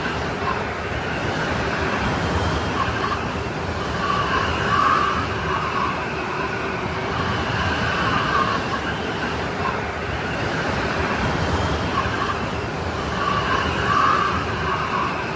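Strong snowstorm wind blowing steadily, with a high, whistling howl that swells every four to five seconds over a constant roar.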